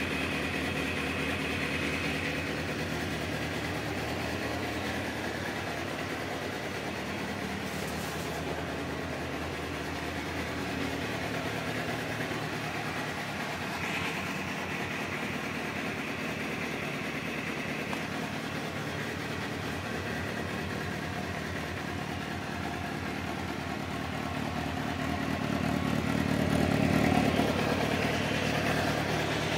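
2002 Suzuki GSX-R750 inline-four idling steadily through its stock exhaust, with the engine revved up briefly near the end.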